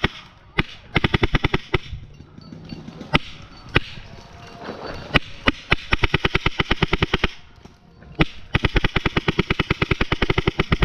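Paintball marker firing close by: single shots and long rapid strings of about ten shots a second, the longest near the end.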